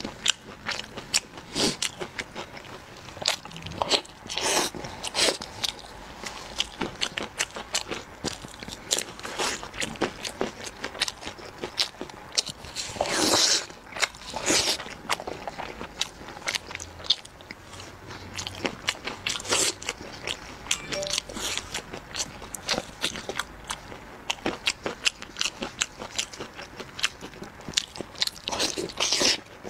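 Close-miked eating: biting and chewing meat off braised ribs, with many small wet clicks and crackles and a louder stretch of biting around the middle.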